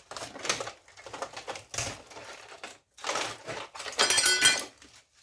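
Clattering and rattling of metal and plastic parts being pulled about and handled while an old piece of electrical equipment is stripped for scrap. The loudest is a metallic clatter about four seconds in, with a brief ring.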